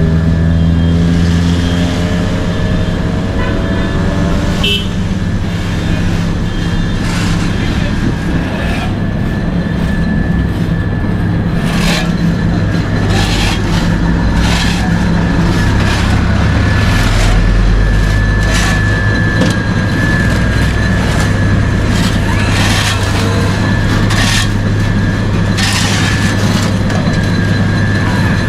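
Road vehicles and paving machinery with diesel engines run in a steady low drone. In the first few seconds one vehicle's engine rises in pitch as it speeds up, and scattered short knocks follow.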